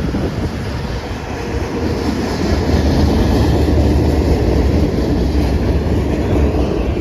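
Freight train rolling past, a steady low rumble of wagons with the clickety-clack of wheels over rail joints, growing louder about two seconds in.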